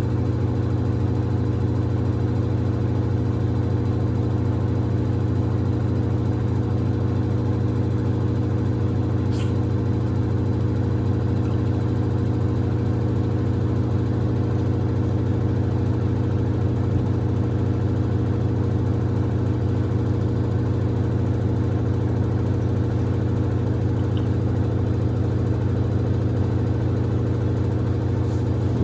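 Samsung front-loading washing machine running mid-cycle: a steady, even machine hum with a strong low drone and several fainter steady tones above it. A faint tick sounds about nine seconds in.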